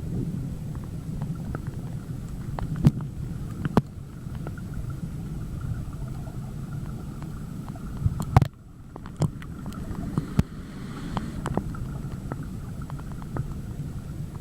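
Muffled low rumble of moving river water heard through a camera in a waterproof bag held underwater, with scattered clicks and knocks as the bag is handled. The rumble drops suddenly for a moment about eight seconds in, after a sharp knock.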